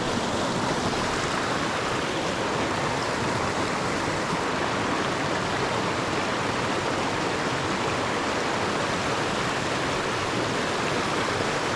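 Small mountain creek's water running over rocks: a steady, even rushing sound.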